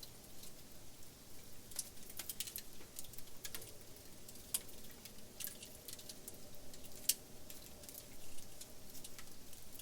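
Wood fire burning, crackling with irregular sharp pops and snaps, the loudest snap about seven seconds in.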